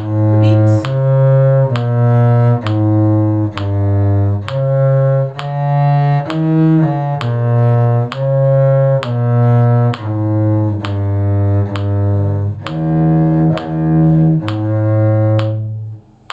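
A small group of bowed string instruments playing a slow, even tune in A major, a low bass line under higher parts, with a new note about every three-quarters of a second. The music stops near the end.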